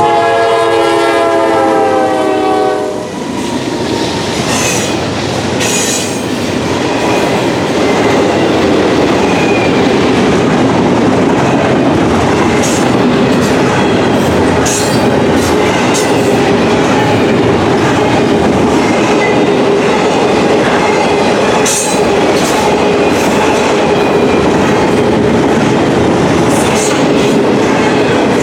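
The horn of a GE D9-40CW diesel locomotive sounds a held chord that cuts off about three seconds in. The steady rumble and clatter of intermodal container cars rolling past follows, with faint wheel squeals and rail clicks now and then.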